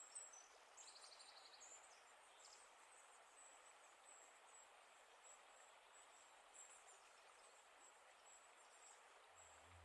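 Near silence: faint outdoor ambience with small, high bird chirps repeating in the background.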